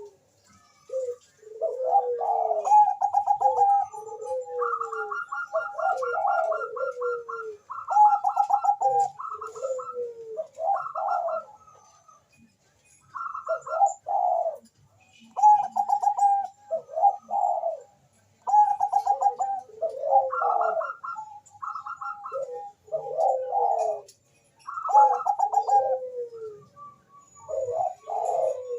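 Zebra dove of the Bangkok-bred perkutut type cooing over and over. Each phrase is a quick run of trilled notes ending in a falling coo, with short pauses between phrases.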